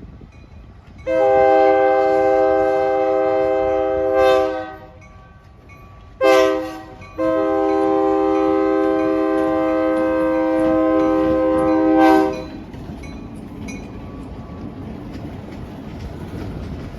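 Diesel locomotive air horn sounding a long blast, a short one and another long one, the pattern of a grade-crossing signal. Then the low rumble and clicking of the train rolling past.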